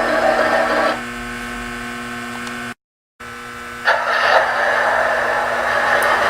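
Steady electric whirring and humming of a model train layout's operating accessories and trains running. It drops quieter about a second in, breaks off for a moment at an edit, then comes back louder.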